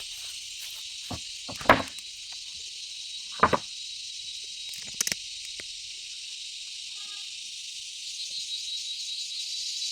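Steady high-pitched hiss, with a few short, sharp knocks: the loudest about one and a half seconds in, another near three and a half seconds, and a quick double knock around five seconds.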